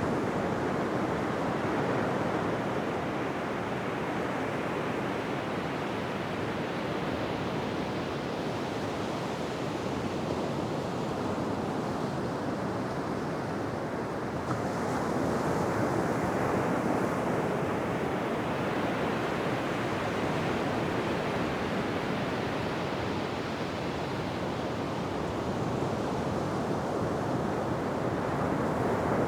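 Ocean waves breaking and washing on a beach, a steady rushing surf that swells and eases slowly, a little fuller about halfway through and again near the end.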